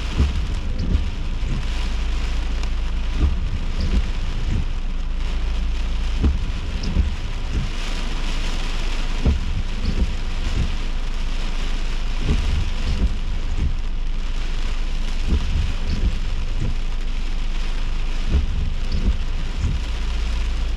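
Heavy thunderstorm rain: a steady hiss with frequent, irregular low thumps.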